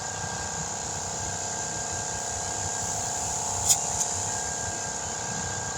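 Steady mechanical hum with one short burst of air hiss about three and a half seconds in, from a tire inflator being squeezed on the valve stem while airing up a tire.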